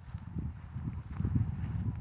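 Footsteps while walking, as a run of irregular low thumps with a rumble on the microphone that starts suddenly.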